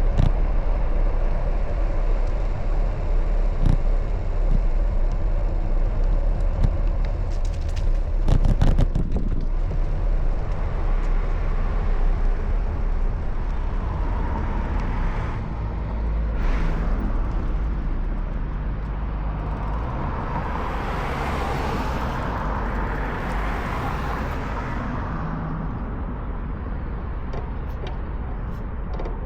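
Road traffic and a low rumble of wind on the microphone while cycling. A vehicle passes about twenty seconds in, its noise swelling and then fading.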